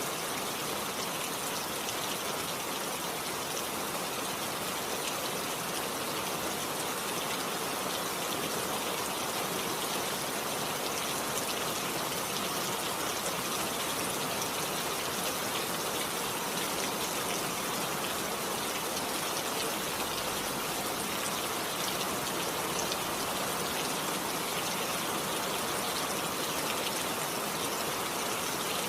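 Steady rain falling: an even hiss with scattered drops hitting close by.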